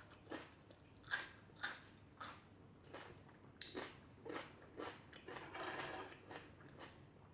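Close mouth sounds of a person chewing and biting food, a run of irregular moist, crunchy clicks about one to two a second, as from crisp, lightly cooked bell pepper in sweet and sour fish.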